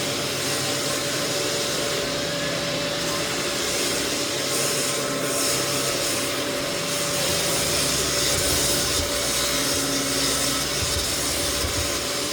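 Lagler Flip floor sander running steadily, its abrasive grinding across white oak floorboards to level the cupped boards, with a constant hum from its motor and dust-extraction fan.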